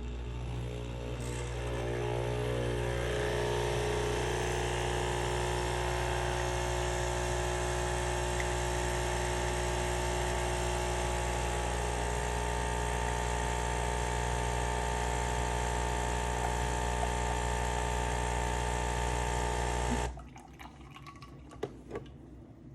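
Home espresso machine's pump running steadily as a hum, pushing water with a dissolved cleaning tablet through the machine on a cleaning cycle. It cuts off abruptly near the end.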